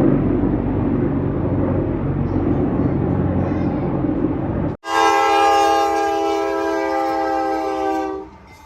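A passing train's steady low rumble, with a low engine hum under it. After an abrupt cut about five seconds in, a train horn sounds one long, steady blast for about three seconds.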